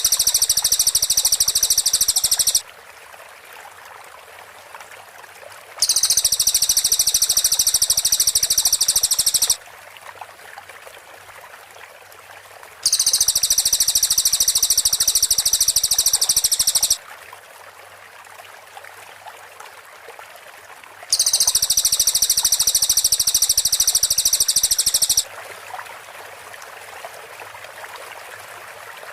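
Cililin songbird singing its rapid "shooting" song: four long, very fast high trills of about four seconds each, separated by pauses of three to four seconds, over a steady background of running water and insects.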